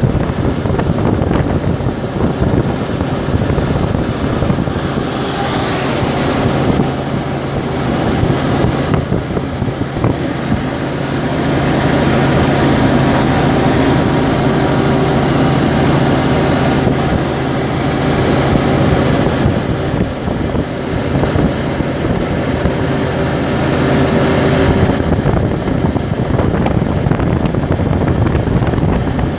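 Car travelling down a highway: steady road and wind noise with the engine's low drone underneath.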